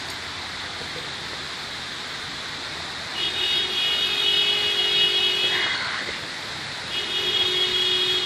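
Car horn held down in two long blasts: the first lasts about three seconds, the second begins about seven seconds in and is still sounding at the end.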